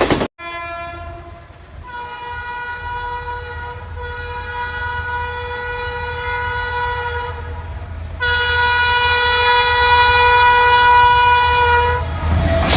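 WAP-4 electric locomotive's horn sounding one long steady note over the low rumble of the approaching train; the note jumps louder about eight seconds in and cuts off near the end, where the rush of the train passing begins.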